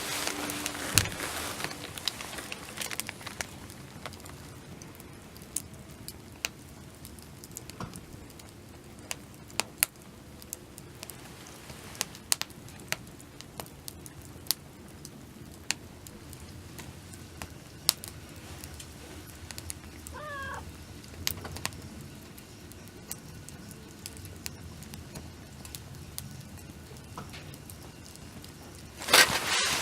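Wood campfire crackling: irregular sharp pops over a low steady hiss. A short warbling chirp sounds about twenty seconds in.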